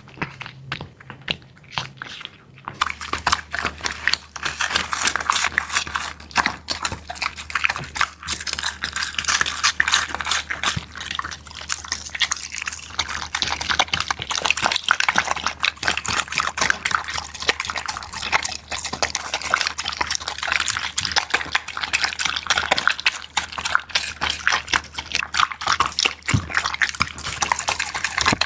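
Dog lapping and eating a wet, soupy meal: a steady run of quick wet slurps and smacks that starts about three seconds in.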